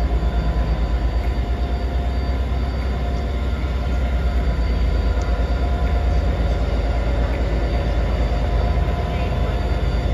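A train running at the station platform: a steady low rumble with a fast throbbing beat, and steady humming tones above it.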